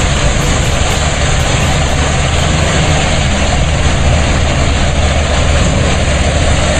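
Heavy vehicle's engine running loud and steady, with a deep hum under a thick rushing noise.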